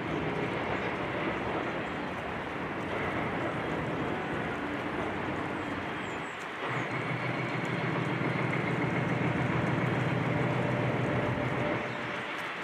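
Heavy diesel machinery running steadily with a low engine hum. About halfway through the engine note grows deeper and louder, then drops back near the end.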